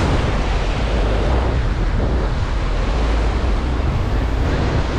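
Wind buffeting the microphone in a steady, heavy rumble, over the wash of surf.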